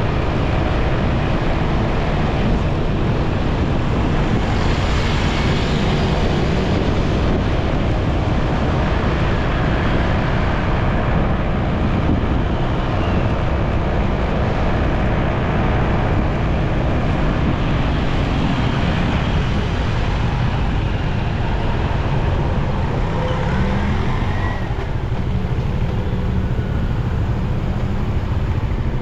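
Steady wind noise on the microphone of a moving motorcycle, over the bike's engine and the surrounding road traffic.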